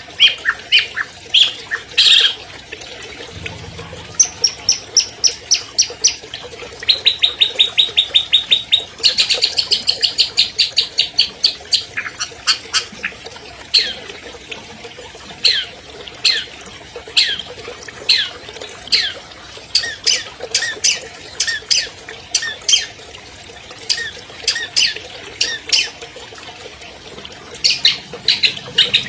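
A long-tailed shrike (cendet) sings a loud, varied song. About four seconds in come fast, even trills of high notes, then a dense run. After that it gives series of sharp notes that drop quickly in pitch, repeated one after another.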